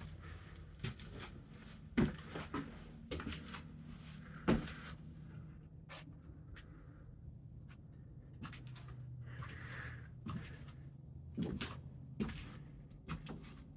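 Scattered short knocks and clicks over a faint low hum, the loudest about two seconds in and again about four and a half seconds in, with a few more near the end.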